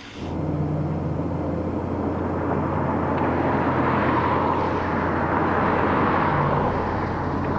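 Launch-pad water deluge system running: a loud, steady rush of water with a low steady hum beneath it, cutting in suddenly at the start.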